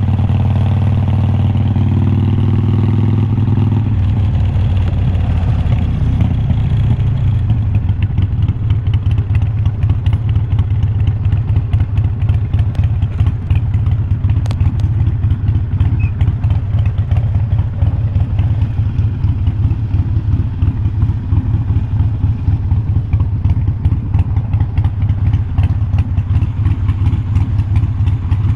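2020 Harley-Davidson Iron 1200's air-cooled Evolution V-twin through unbranded glass-pack-style slip-on mufflers. A steady exhaust note drops about four seconds in and settles into a low, uneven, lumpy beat of firing pulses, typical of the bike idling or rolling slowly.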